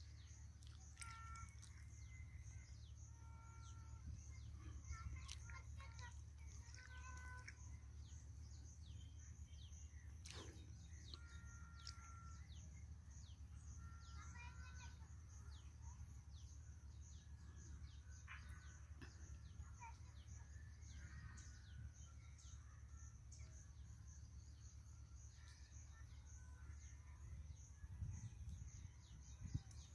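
Faint rural ambience: scattered short bird chirps and calls over a low steady rumble.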